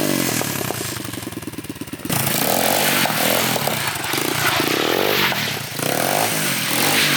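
Small pit bike engine on a homemade drift trike, running just after a kick start: it settles to a quieter, lower idle about a second in, then is revved hard several times from about two seconds in, the pitch rising and falling with each rev.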